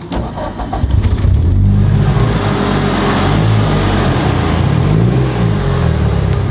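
A car engine revving and accelerating hard, coming in about a second in, its pitch climbing and falling.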